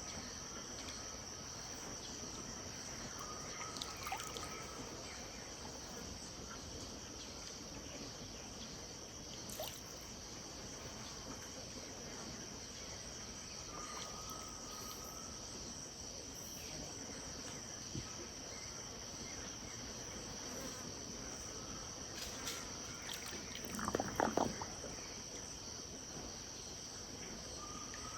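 Steady, high-pitched chorus of insects, with faint short calls now and then. A brief louder sound near the end stands out above the chorus.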